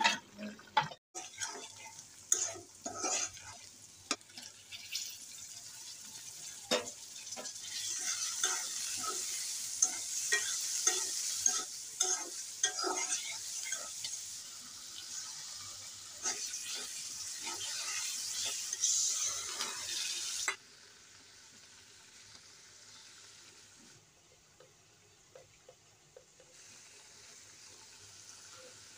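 Small shrimp, onion and green chillies sizzling in hot oil in a wok, a metal spatula scraping and clacking against the pan as they are stirred. The sizzle and scraping stop abruptly about two-thirds through, leaving only a faint low sizzle with an occasional tick.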